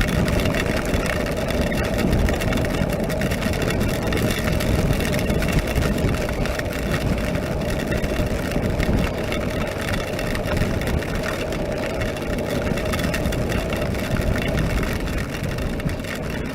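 Honda NC700X parallel-twin engine running at a steady cruise. It is mixed with steady wind rush and tyre spray on a rain-soaked road, and eases off slightly near the end.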